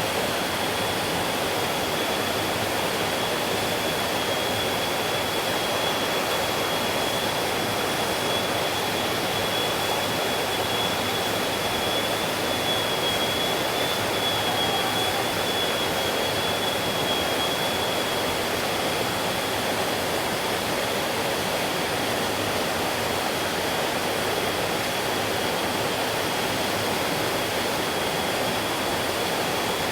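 A stream flowing with a steady rush of water. A faint thin high tone holds through it and wavers slightly midway.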